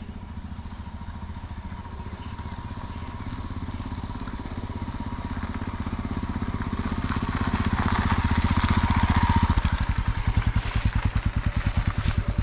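A vehicle engine running with an even, rapid pulse, growing louder over the first two thirds and pulsing more strongly near the end.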